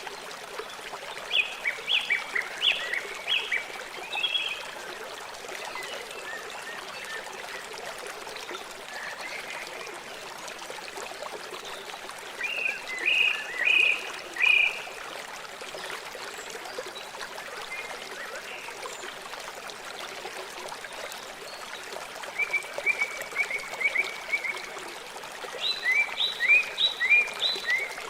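River water flowing steadily. A bird sings over it in four short phrases of quick, high, falling notes.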